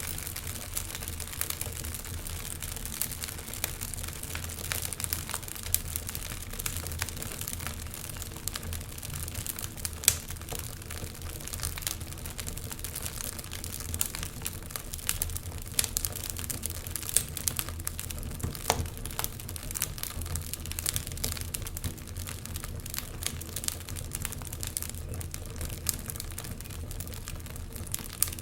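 Wood fire crackling, with frequent sharp pops and snaps over a low steady hum; the loudest pop comes about ten seconds in.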